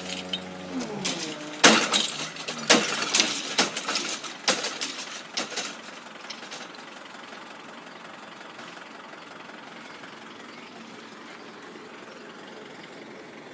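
A road vehicle's engine idling, then changing pitch and fading away within the first second or so. A run of sharp knocks and clatters follows over the next few seconds, then steady background.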